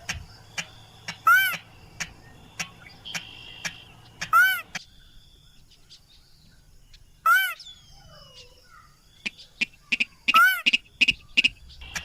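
Recorded crake or rail calls played as a hunting lure. A loud, arched, whistled note comes roughly every three seconds, with short sharp ticks between. Near the end there is a quick run of short notes.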